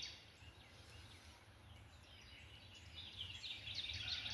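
Faint birdsong outdoors: a run of quick high chirps starting about three seconds in, over a low steady outdoor rumble.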